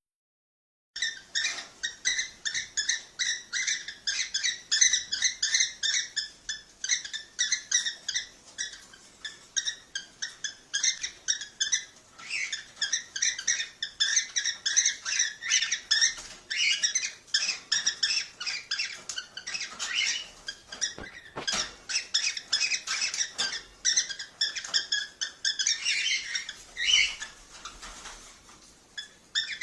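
Cockatiels chirping in a fast, dense run of short high calls, the kind of chatter played to stimulate breeding. It starts abruptly about a second in after a brief silence.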